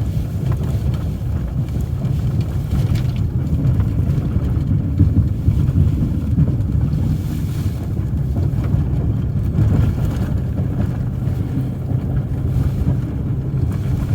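Engine of a snowplowing vehicle running steadily while it pushes through drifted snow with a V-blade plow, with wind buffeting the microphone.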